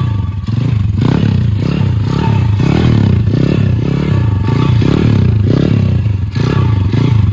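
Small single-cylinder pit bike engine revved in quick throttle blips, its pitch rising and falling a couple of times a second, with clattering and scraping from the makeshift chair-caster wheels.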